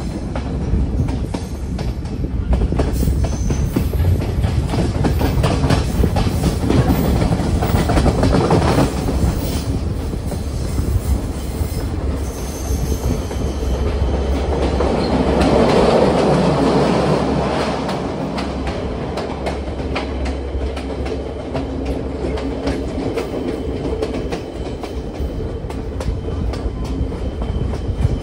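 Passenger train running along the track, heard from a carriage window: a steady rumble of wheels on rail with the clickety-clack of rail joints. It grows louder for a couple of seconds about halfway through.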